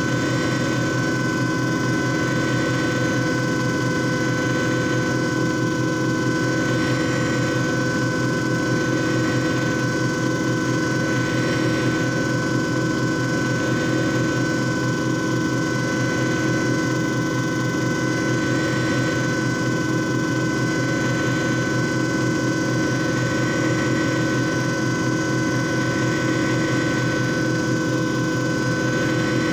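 JFJ Easy Pro disc repair machine running, its motor whirring steadily with several constant tones and no change in speed.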